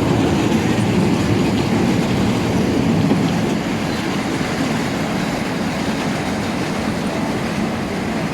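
Train running with a steady rumble of wheels and cars, easing slightly about halfway through.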